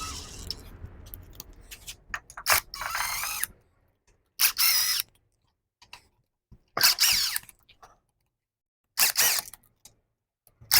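Cordless power tool run in about four short bursts of under a second each, with pauses between, spinning out the loosened bolts on a manual transmission case.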